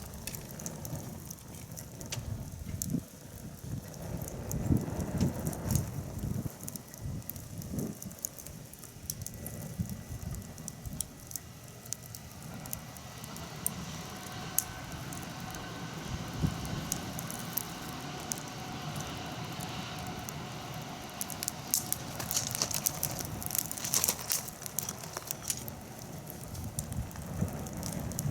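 Wood fire crackling, with irregular sharp pops and snaps that come thickest near the end, over a low rustling rumble.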